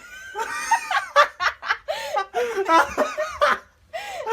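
People laughing in a run of short bursts, with a brief pause near the end.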